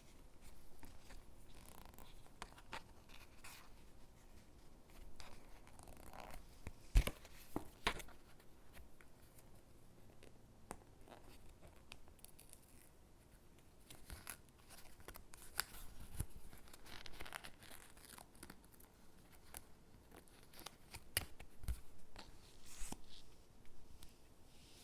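Stickers being peeled from their backing sheet and pressed onto paper gingerbread cutouts: soft peeling and rustling with scattered light taps, the sharpest about seven seconds in.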